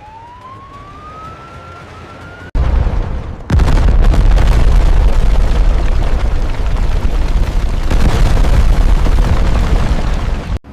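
A thin rising whistle over a low rumble. About two and a half seconds in, a sudden very loud, deep crashing rumble of a structure collapsing takes over and runs for about seven seconds, then cuts off abruptly.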